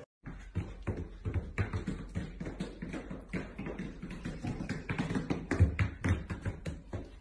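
Husky dogs in boots walking on a hard floor: a quick, irregular patter of taps and light thuds from the booted paws, loudest about five and a half seconds in.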